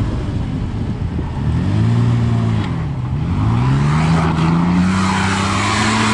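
A 4x4's engine revving hard on a sand dune climb: it revs up, drops off briefly about halfway through, then revs up again and holds high under load. A hiss of tyres churning sand builds in the second half.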